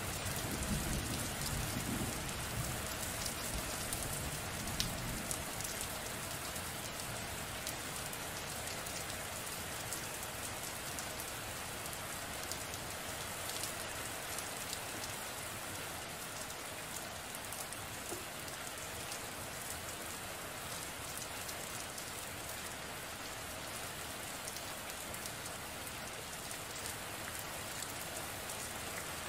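Steady rainfall, with a low rumble of distant thunder fading out over the first few seconds.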